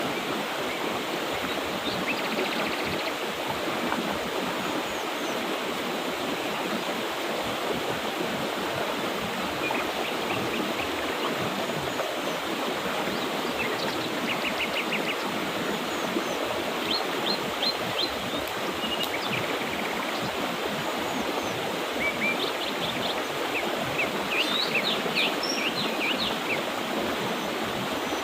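Mountain river water running steadily, with birds calling in short, quick chirps now and then, more often in the second half.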